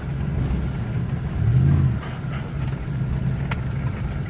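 Truck driving, a steady low engine and road drone heard from inside the cab. A brief louder low swell comes about one and a half seconds in.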